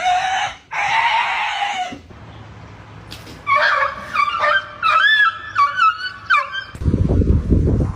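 A cat yowling in long, held wails for about two seconds. After a short pause comes a quick run of short, high dog yelps and whines, each rising and falling in pitch. A low rumbling noise follows near the end.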